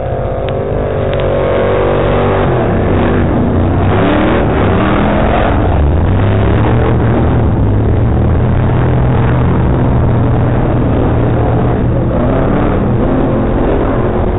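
Drift car engine revving hard, its pitch climbing and dropping again and again as the throttle is worked. It swells over the first couple of seconds and then stays loud.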